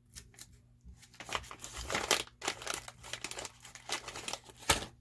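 Irregular crinkling, rustling and light clicks of small parts being handled by hand, with one sharper click near the end.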